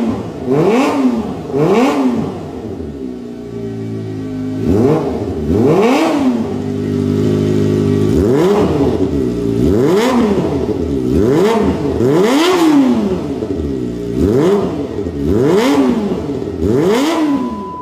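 Kawasaki Ninja ZX250R motorcycle engine through an aftermarket exhaust, revved in quick throttle blips about once a second, with a few seconds of steady idling in the middle.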